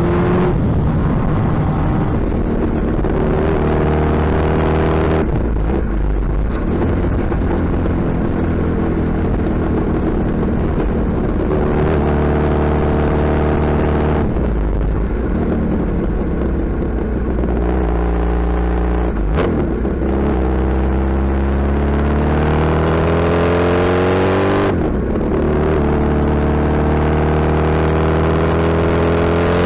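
Suzuki Hayabusa inline-four motorcycle engine under way, its loud exhaust note climbing as it accelerates, dropping back and climbing again several times as the rider shifts and rolls on and off the throttle.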